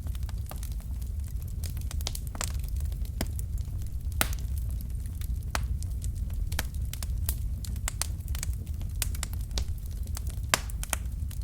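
Wood fire crackling: burning logs giving off irregular sharp pops and snaps, several a second, over a steady low rumble of the flames.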